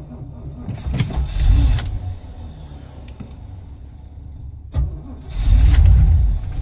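Carbureted small-block V8 of a 1978 Chevrolet K5 Blazer being cold-started at −25 °C. It fires briefly about a second in, cranks and stumbles, then catches and keeps running loudly from about five seconds in. The owner thinks it is a little flooded.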